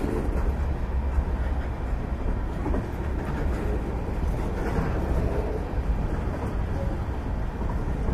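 Freight train's boxcars rolling past: a steady low rumble of steel wheels on the rails.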